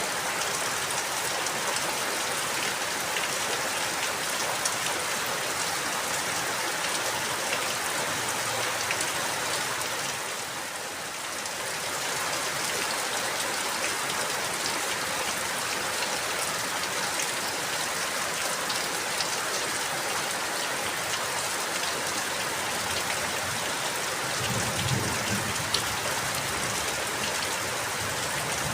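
Steady rain falling, with many close drops pattering on a surface. It dips briefly about a third of the way through, and a low rumble joins in near the end.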